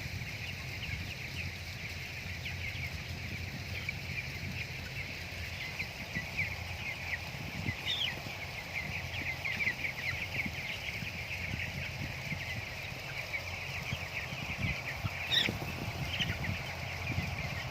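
A flock of broiler chickens peeping continuously, many short overlapping calls, with a few louder calls standing out about halfway through and near the end. Soft low knocking runs underneath.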